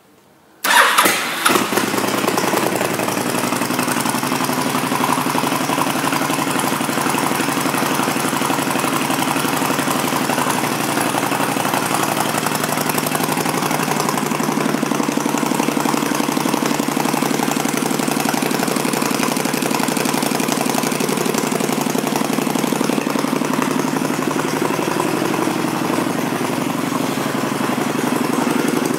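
2006 Honda VTX1300's V-twin engine with aftermarket exhaust pipes starting up about half a second in, with a brief surge, then idling steadily.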